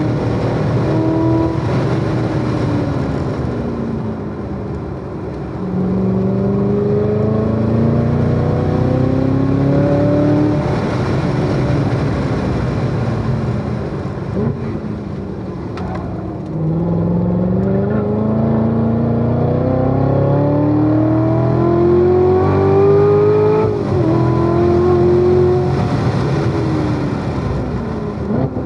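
Corvette C7 Z06's supercharged V8 on track, pulling hard twice with its pitch climbing steadily, then winding down as the driver lifts between the pulls and near the end. A brief pitch dip partway through the second pull marks an upshift.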